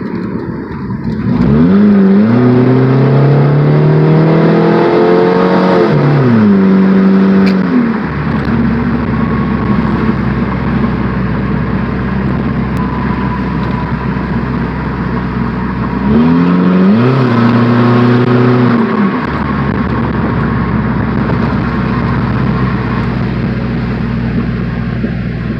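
Straight-piped Chevy Cavalier engine revving hard twice, each time its pitch climbing for a few seconds and then falling away, with a sharp pop as the first rev drops off. Between and after the revs it settles into a steady, lower drone.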